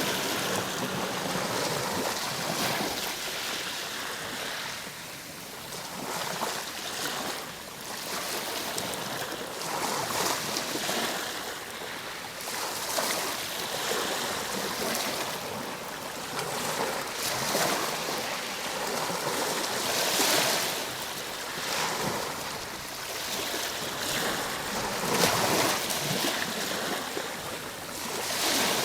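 Ocean waves washing on a shore, a continuous hiss of surf that swells and eases every few seconds as waves break and draw back.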